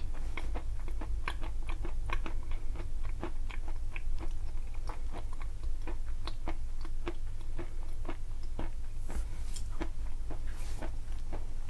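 Close-miked chewing of a mouthful of chalk and clay: rapid, irregular crunches and crackles, several a second, as the pieces are ground between the teeth.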